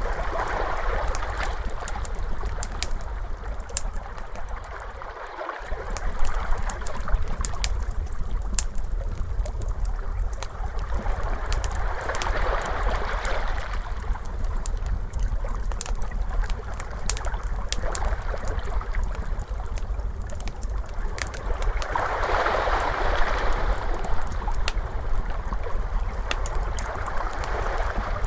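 Crackling fire, with sharp pops scattered throughout, over ocean waves that swell and wash in about every ten seconds, above a steady low rumble.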